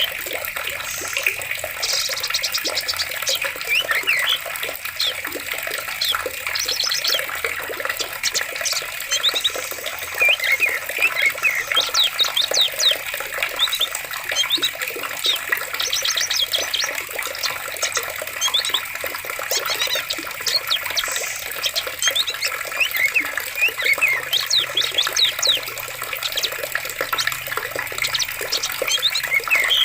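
Running stream water with many birds calling over it: short chirps, quick trills and rising whistles throughout.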